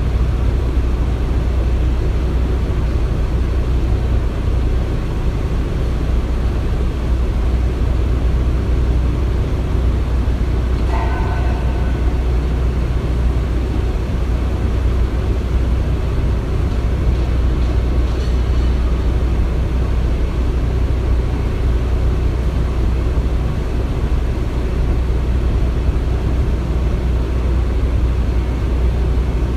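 Construction-site ambience: a steady low rumble of heavy machinery, with a brief higher tone about eleven seconds in.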